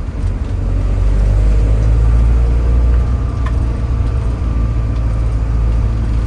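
Camper bus being driven: steady low engine and road rumble, a little louder between one and three seconds in, with a faint click about three and a half seconds in.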